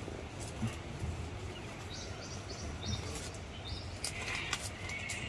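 Birds calling: a run of short high chirps from about two seconds in, then a longer, lower call about four seconds in.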